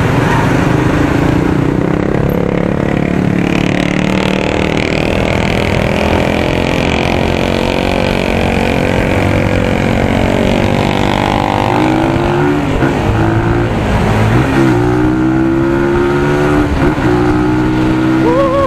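Stock exhaust of a 250 cc single-cylinder motorcycle running under way, the engine note holding steady and then climbing in pitch several times in the second half as it revs up through the gears. The note is mild rather than aggressive.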